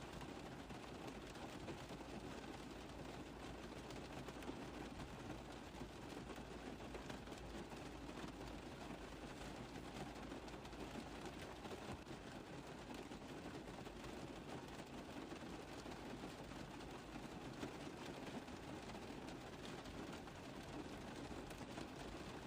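Steady rain tapping on a car roof, an even patter of many small drops.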